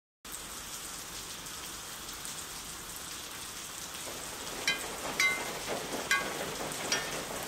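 Steady rain falling, an even hiss of drops on hard surfaces. From a little past halfway, short high plinks of dripping drops come roughly once or twice a second.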